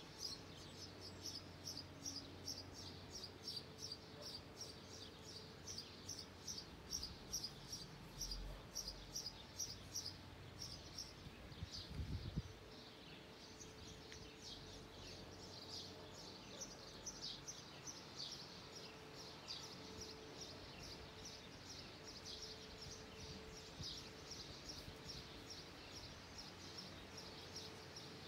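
Small birds chirping in quick, repeated notes, kept up throughout over a faint background hum, with a brief low thud about twelve seconds in.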